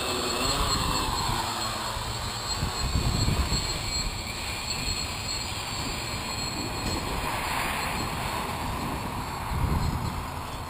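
A large quadcopter's four brushless motors, Avroto 2814 700 kV on 14-inch propellers, whir in the air, the pitch dipping and rising as the motors work to hold it steady in gusty wind. Heavy wind buffets the microphone throughout.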